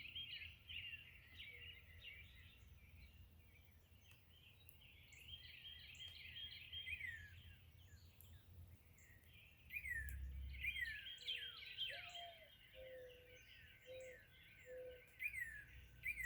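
Faint morning chorus of several songbirds: many quick falling chirps overlapping throughout, with a few short low notes from another bird in the last few seconds, over a faint low rumble.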